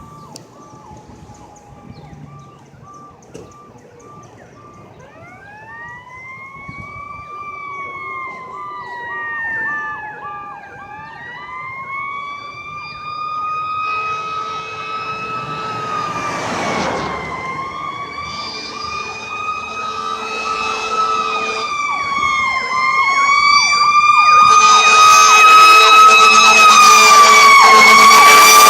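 Fire engine siren winding up about five seconds in, then wailing in slow rising and falling sweeps that grow steadily louder as the truck approaches. In the last few seconds it is very loud, with a steady lower tone under it.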